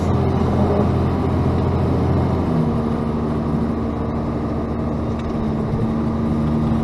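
Heavy truck's diesel engine running steadily, heard from inside the cab of the plow truck, with road noise. About two and a half seconds in, the engine note shifts to a new, slightly higher steady hum.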